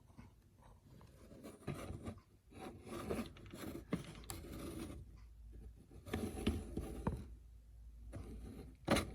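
Irregular scraping and rustling, as of small objects being handled or moved over a surface, with a sharp click near the end.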